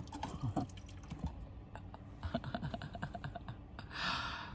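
Small clicks and clinks of a spoon and cookware while tasting a pot of rice, with a run of quick ticks in the middle and a short hissing rush near the end.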